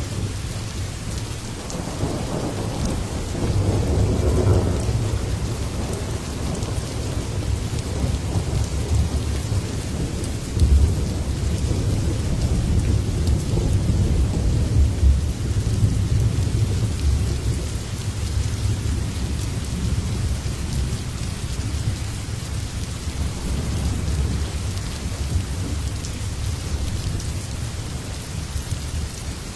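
Steady heavy rain with thunder rumbling low underneath, swelling a few seconds in and again around the middle, then rolling on more softly.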